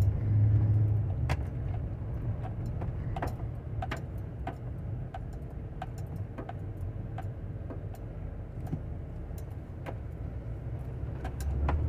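Inside the cabin of a moving 2008 Chevrolet Tahoe with its 5.3-litre V8: a steady low engine and road hum, with light ticks and rattles now and then.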